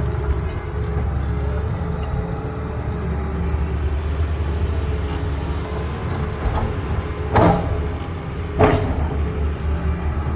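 Heavy diesel excavator running steadily with a low rumble and a steady whine, with two loud clanks a little over a second apart near the end.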